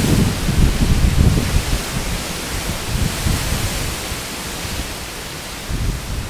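Strong storm winds gusting, with wind buffeting the microphone in rumbling bursts over a steady rushing noise; the gusts are strongest in the first second and a half and ease off after about four seconds.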